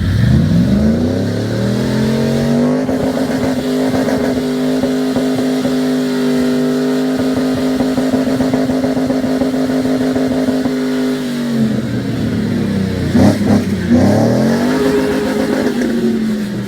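Jeep J-series pickup's engine revving up under load as it climbs a rock obstacle: the revs rise over the first couple of seconds, hold high and steady for about eight seconds, then drop off, blip briefly, and rise and fall once more near the end.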